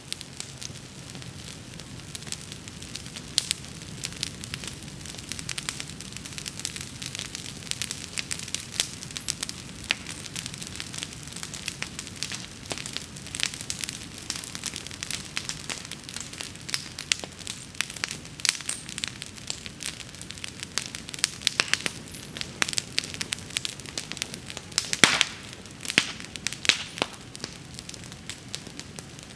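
Wood bonfire crackling and popping steadily over a low rush of the flames, with a louder pop about 25 seconds in and a few more strong ones just after.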